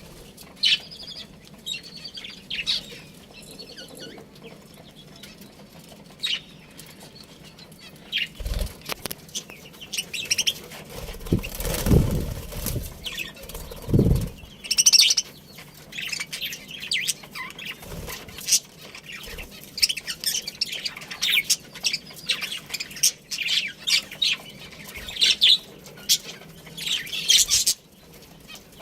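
A colony of budgerigars chirping, with many short high calls overlapping throughout. Bursts of wing flapping come around the middle.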